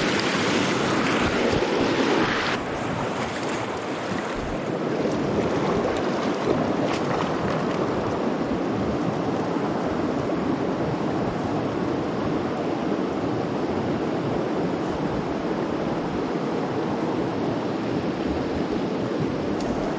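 Steady rush of flowing trout-stream water, a little louder for the first couple of seconds before settling.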